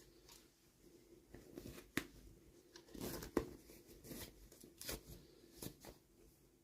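Packaging being handled and torn open: irregular rustling, crinkling and sharp clicks, with the loudest snaps about two seconds and three and a half seconds in.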